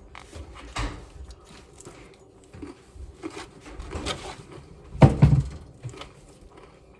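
Someone chewing a mouthful of crunchy Caesar salad, with irregular crunches and small clicks, the loudest about five seconds in.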